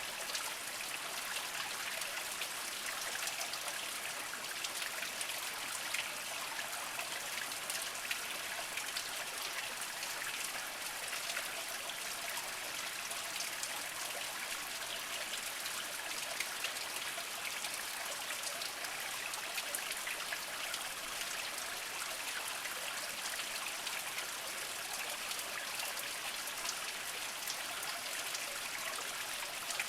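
Small spring trickling and splashing over mossy rocks, a steady flow with many small droplet splashes.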